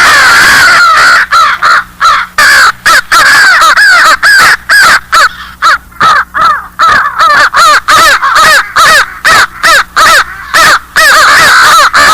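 Crows cawing: a long run of harsh caws, several a second, crowded together at first and then coming one after another.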